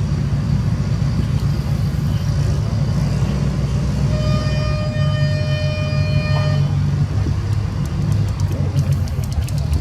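Antique tractor engine running steadily, with a single held horn-like tone of about two seconds in the middle.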